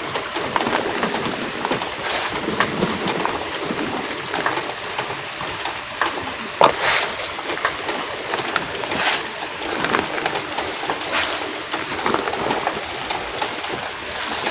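Homemade reformed gym chalk crumbling and crunching under the fingers in irregular crackles, over a steady rain sound; the sharpest crunch comes about halfway.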